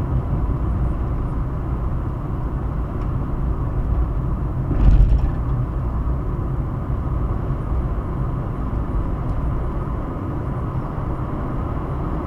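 Steady road rumble of a car driving along a highway, tyre and engine noise, with a brief louder swell about five seconds in.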